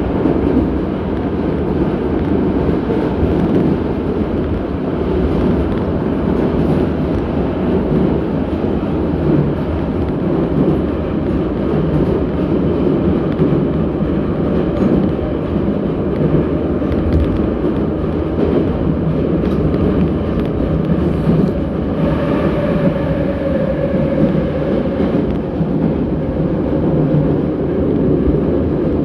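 81-717.6 metro train running, heard from inside the car: a loud, steady rumble of wheels and running gear. About three-quarters of the way through, a humming tone joins in and slowly falls in pitch.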